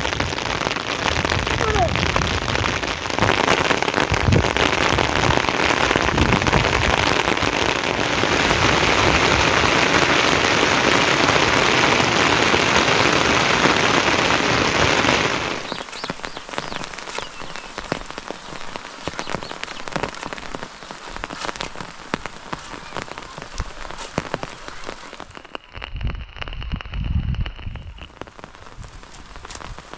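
Steady heavy rain hiss; about halfway through it switches abruptly to quieter rain with individual drops pattering, and a short low rumble comes near the end.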